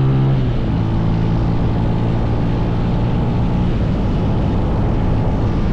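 Small mini bike engine running while riding, its note dropping off about half a second in, with wind rushing over the microphone.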